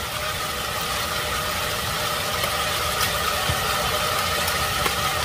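Diced potatoes and smoked sausage frying in a pot, an even sizzle with a steady mechanical hum beneath it.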